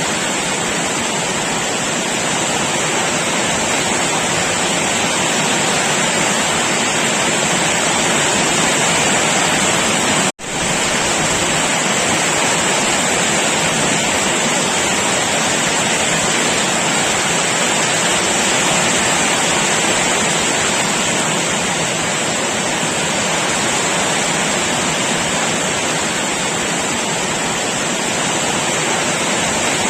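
Heavy rain pouring down in a steady, dense hiss. About ten seconds in, the sound drops out for an instant and resumes at once.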